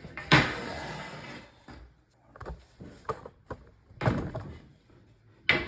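Wooden bed slats being laid onto the bed frame: a sharp knock followed by about a second of wood sliding and scraping, then two more knocks near the end.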